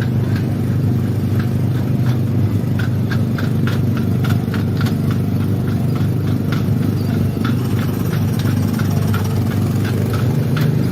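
Small gasoline engine of a Tomorrowland Speedway car running steadily at a low, even drone, with light clicks about two or three times a second.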